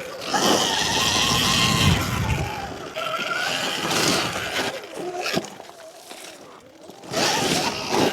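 Sur-Ron Ultra Bee electric dirt bike being ridden, its motor whining in uneven surges as the throttle is worked, mixed with rushing noise.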